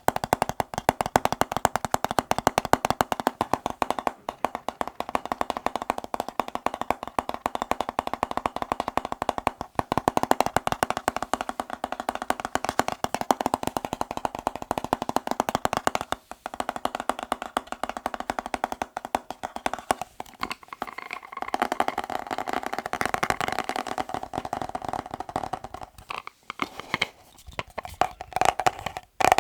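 Rapid tapping on hard objects, many taps a second, with a few short pauses along the way.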